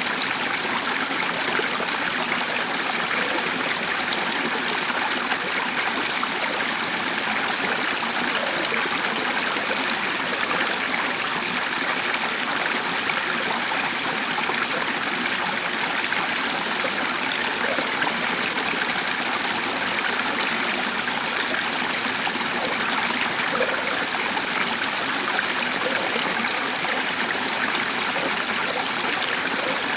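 Stream water running steadily, an even rush and trickle with no breaks.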